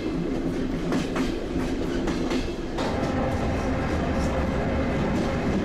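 Soviet-era elektrichka electric commuter train running, its wheels clacking over the rail joints over a steady rumble. About three seconds in, the clacking thins out and a steadier hum with a faint held tone takes over.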